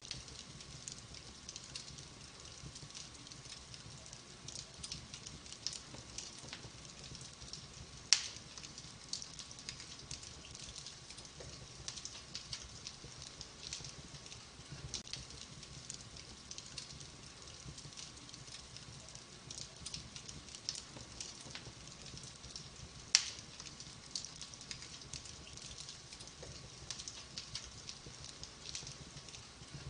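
Wood fire in a fireplace crackling steadily with many small snaps, and two loud sharp pops, one about 8 seconds in and another about 23 seconds in.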